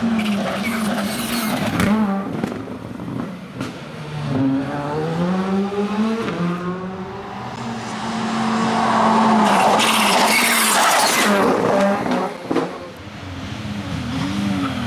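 Rally car engine at high revs, rising and falling through the gears as it accelerates and brakes. About ten seconds in come a couple of seconds of loud tyre skidding as the car slides through a corner.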